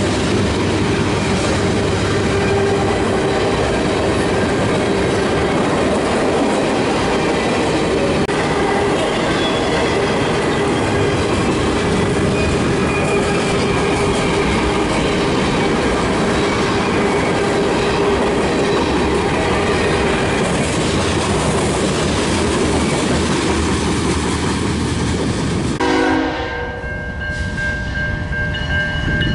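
A train passing close by, wheels clattering over the rail joints. About 26 seconds in the running noise drops away and a train horn sounds, holding a steady chord to the end.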